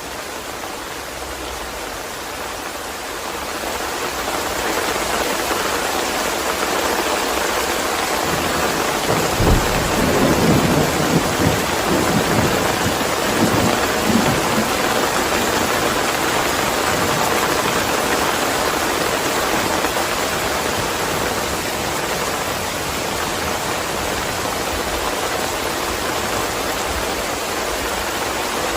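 Heavy rain falling steadily, swelling over the first few seconds. Thunder rumbles low from about ten seconds in and lasts several seconds.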